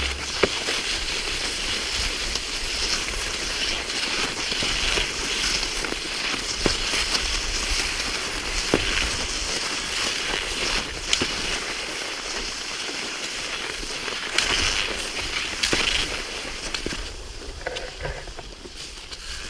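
Cross-country skis hissing over cold, groomed snow in a steady stride, the hiss swelling with each push, with now and then the sharp click of a pole tip striking hard snow.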